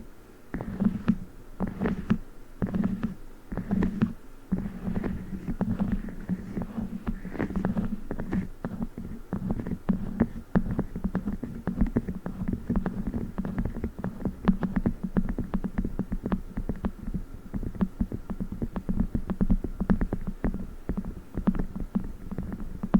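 Close-miked ASMR handling of a 'chocolate book' toy: squelchy squishing and rapid tapping. It comes in slower clusters at first, then turns into a fast, even patter of taps about halfway through.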